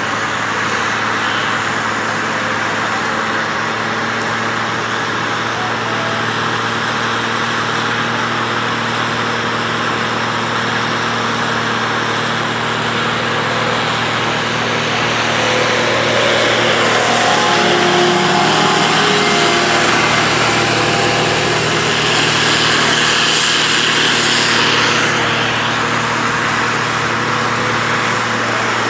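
Tractor engine running steadily, getting somewhat louder about halfway through and easing back near the end.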